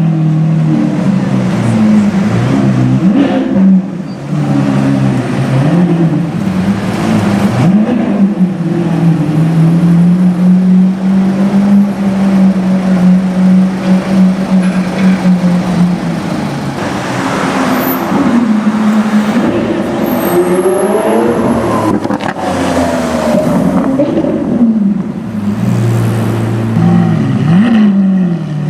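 Lamborghini Aventador S Roadster's V12 engine running at low revs, held steady through a long middle stretch, with several short rev rises that fall back again, a few near the start and more in the last third.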